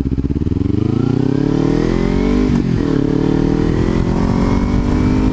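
Kawasaki Ninja 300's parallel-twin engine accelerating hard, its pitch climbing steadily, dropping once with an upshift about two and a half seconds in, then climbing again through the next gear.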